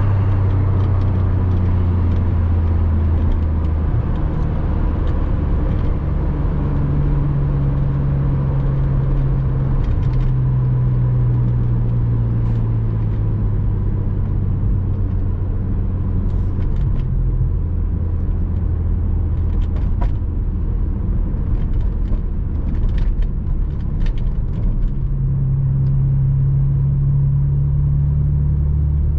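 Porsche Boxster 986 flat-six engine pulling steadily while the car cruises, a low drone under road and tyre noise. Its pitch steps up and down a few times as the throttle and speed change.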